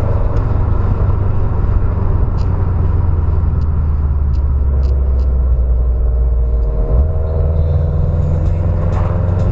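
Car engine running at low revs: a steady deep rumble, with its pitch stepping up slightly about seven seconds in.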